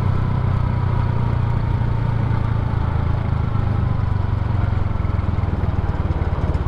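Suzuki Smash 110 motorbike's single-cylinder four-stroke engine running steadily while riding along at a cruise, with road noise.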